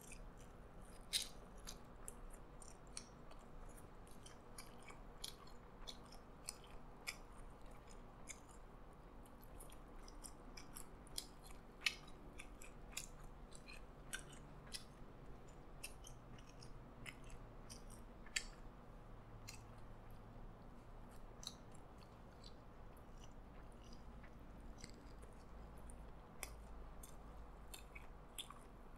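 Faint close-up chewing of a mouthful of burger: soft, irregular mouth clicks and smacks.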